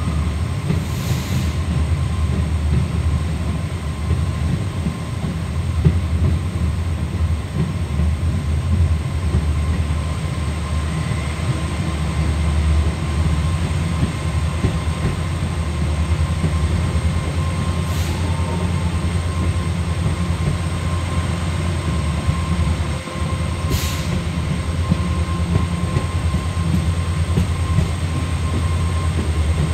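Passenger train running along the track, heard from inside a moving coach: a steady low rumble of wheels on rail, with a few sharp clicks.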